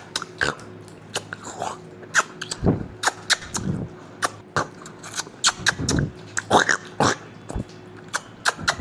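Kinder Joy eggs being handled and opened by hand: irregular sharp crinkles and plastic clicks, a few a second, with a couple of heavier knocks.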